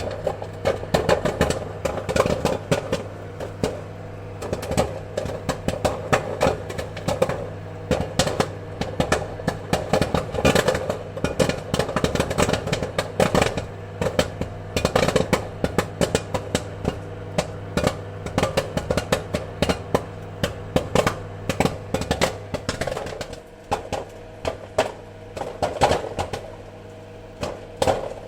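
Popcorn kernels popping in rapid, irregular bursts of sharp pops, several a second, over a steady appliance hum.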